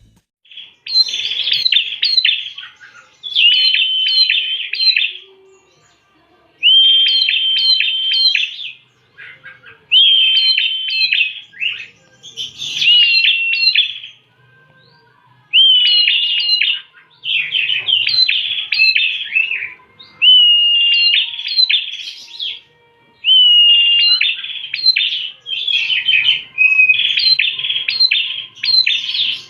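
Prinia (prenjak) singing: about ten short, loud phrases of rapid high chirps, many with a held whistled note, separated by brief pauses.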